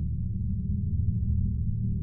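A low, steady drone of several deep sustained tones, with no higher sounds above it.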